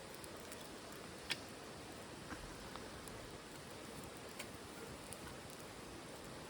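Wood fire burning in a titanium wood stove: a steady low hiss with a few sharp crackles, the loudest about a second in.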